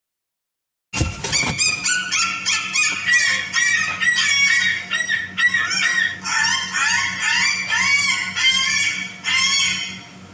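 Yellow-crested cockatoo calling in a quick, continuous run of short squawking notes that rise and fall, starting suddenly about a second in.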